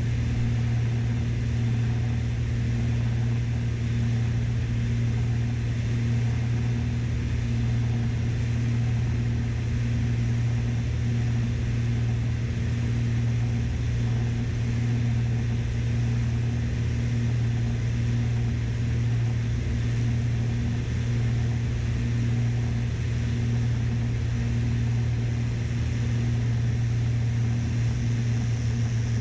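Twin piston engines of a Beechcraft Baron B55 droning steadily, heard inside the cockpit, with a deep constant hum.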